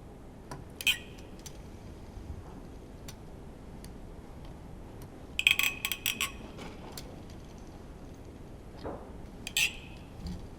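Sharp metallic clinks of tools and engine parts being handled during engine disassembly: a single clink about a second in, a quick rattle of several clinks in the middle, and another near the end.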